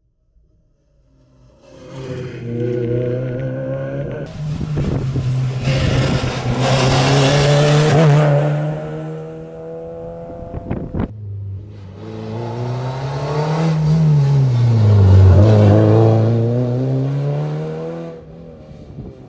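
Rally car engine passing at speed, revving hard through the gears. After an edit, a second pass has the engine note drop as the driver lifts off, then climb again as it accelerates away and fades.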